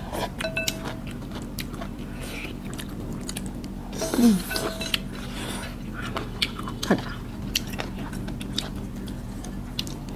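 People chewing and eating noodle soup, with small mouth sounds and light clicks of chopsticks and spoons against the bowls. A short falling vocal 'mm' sounds about four seconds in and again near seven seconds.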